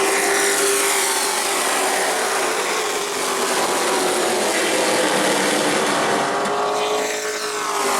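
Race trucks' engines running on the track in a steady, loud drone. Near the end the pitch bends as trucks pass by.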